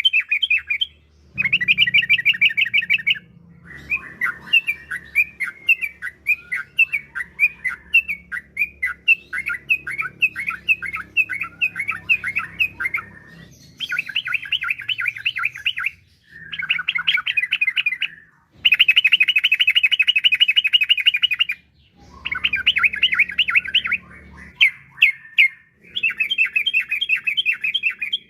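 Yellow-vented bulbul (trucukan) singing in fast, bubbly chattering phrases of a few seconds each, separated by short pauses: the long rolling song of a bird in full voice.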